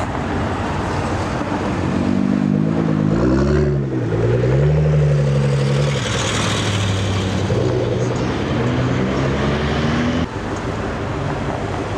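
Car engines accelerating past, the engine pitch climbing and falling between about two and six seconds in, then another car's engine climbing in pitch until it drops off suddenly about ten seconds in.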